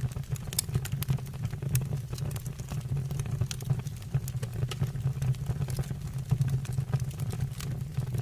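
Wood fire burning in a fireplace: a steady low rumble of the flames with frequent, irregular sharp crackles and pops from the burning wood.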